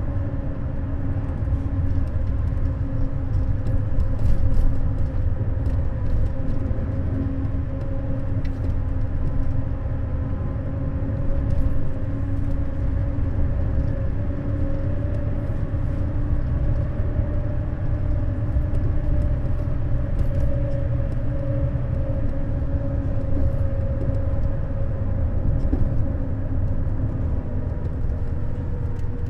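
Neoplan Skyliner N 1122/3C double-decker coach driving, its engine and drivetrain giving a steady low rumble with a constant whine on top. The whine falls slightly in pitch near the end.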